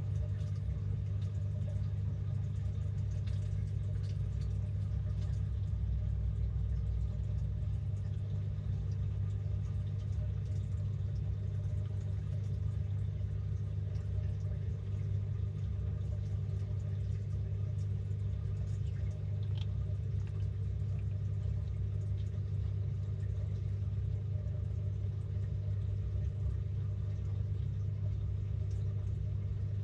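Samsung 6.5 kg top-load washing machine running, heard from inside the tub as a steady low hum that does not change.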